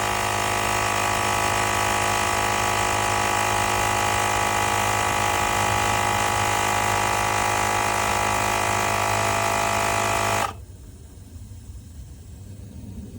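Small electric air compressor of a portable jump starter/tire inflator running steadily with a motor hum and whine, then cutting off abruptly about ten seconds in, leaving a much fainter noise.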